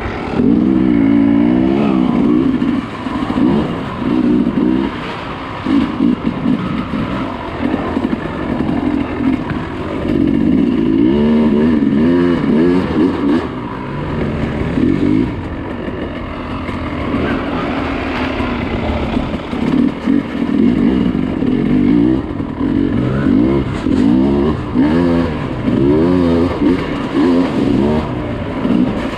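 Dirt bike engine being ridden off-road, its pitch rising and falling again and again as the throttle is opened and closed.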